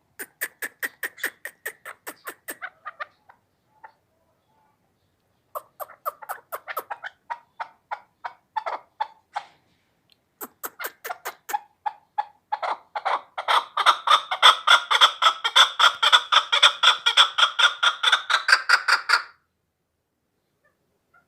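Chukar partridge calling: rapid runs of short clucking notes, about five a second, in three bouts. The last bout is the longest and loudest and stops suddenly.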